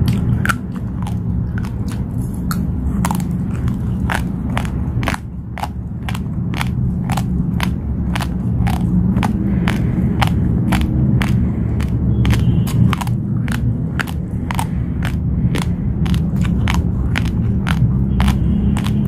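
Uncooked basmati rice being chewed close to the microphone: crisp crunches about twice a second, over a steady low hum.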